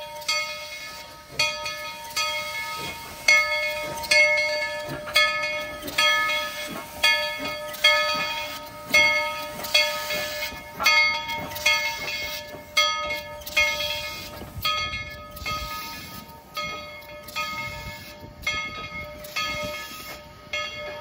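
Steam locomotive's bell ringing steadily, about one clang a second, each stroke ringing on between strikes.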